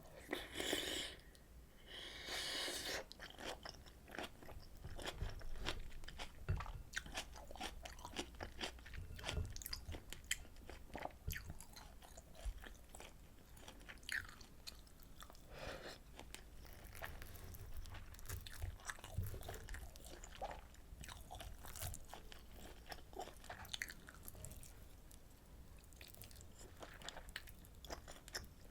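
Close-miked mouth sounds of eating rolled omelet and pork kimchi stew: steady chewing with many small wet clicks and crunches. A couple of louder, hissier bursts come within the first three seconds.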